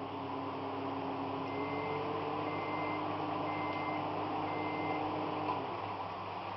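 Microwave oven running with a steady hum, then beeping four times about a second apart to signal the end of the cooking cycle; the hum stops shortly after the beeps.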